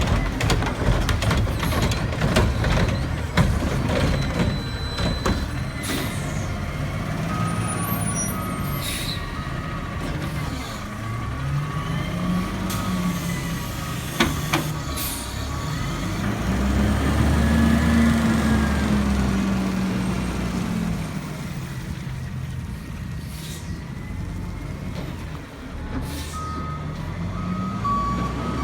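Garbage truck's diesel engine revving up and down in slow swells while its reversing beeper sounds, with the hiss of air brakes and a few metallic knocks. The beeping runs for several seconds, stops, and starts again near the end.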